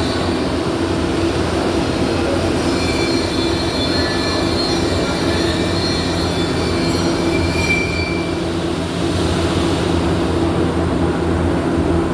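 Steady din of workshop machinery: a continuous low hum with thin high-pitched whines over a dense noise.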